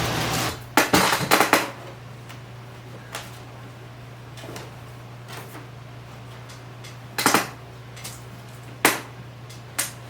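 A steady whooshing noise cuts off about half a second in. What follows is a low steady hum with scattered sharp knocks and clatters, a quick cluster of them near the start and single ones a few seconds apart afterwards.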